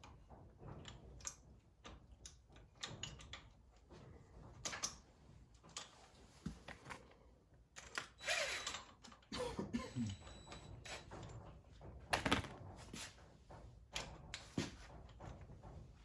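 Irregular metal clicks, taps and clunks of hand tools as an old gear puller is fitted and worked on a timing-set part, with a brief louder rasping noise about eight seconds in.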